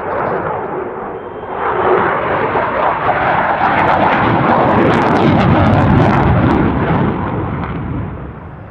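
Jet aircraft passing overhead: its engine noise swells, is loudest with a crackling edge for a few seconds, then fades away.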